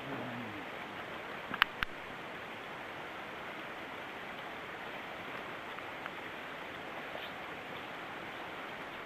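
Steady, even hiss of water, rain or a stream in the forest, with two sharp clicks about a second and a half in.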